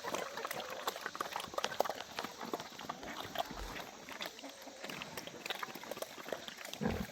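Pigs eating food scraps off the ground: irregular chewing, smacking and crunching clicks, with a short low sound near the end.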